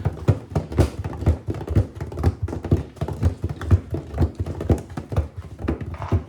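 Hard objects, a calculator among them, knocking and clattering against the drum of an LG WM6700HBA front-load washer as it tumbles, with irregular thuds several times a second.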